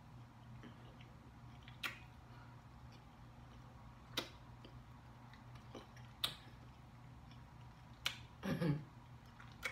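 Close-up mouth sounds of a person chewing food: sharp, wet lip-smacking clicks about every two seconds, with a brief murmur from the throat near the end.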